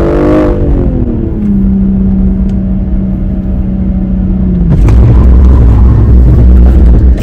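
Car engine and road noise heard from inside the cabin: the engine note falls in pitch and settles into a steady hum, then a louder low rumble comes in about five seconds in.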